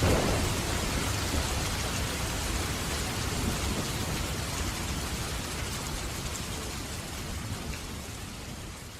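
Steady heavy rain with a low rumble of thunder swelling right at the start. The rain then slowly fades down near the end.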